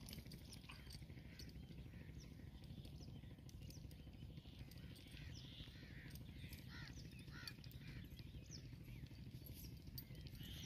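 Faint outdoor ambience: scattered bird calls, with a cluster of short chirps in the middle, over a low steady rumble.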